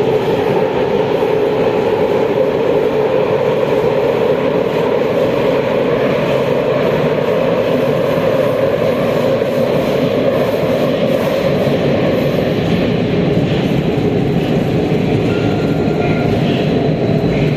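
Metro train running through a tunnel, heard from inside the car: a steady loud rumble of wheels on rail with a droning hum that eases off about two-thirds of the way through.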